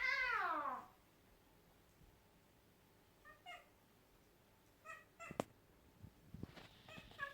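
Domestic cat meowing: one long meow falling in pitch at the start, then short, faint calls about three and five seconds in and near the end. A few light taps or knocks come in the second half.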